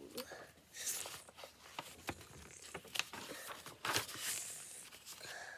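Pen or pencil scratching on paper in short strokes, mixed with a scatter of small clicks and taps.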